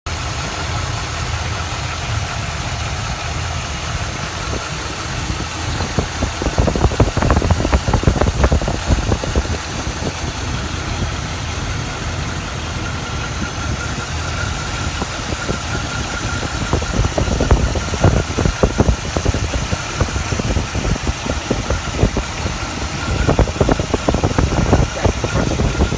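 1967 Buick Riviera's 430 V8 running at idle after an exhaust manifold leak repair, with a few louder, rougher stretches, about a quarter of the way in, two-thirds of the way in and near the end.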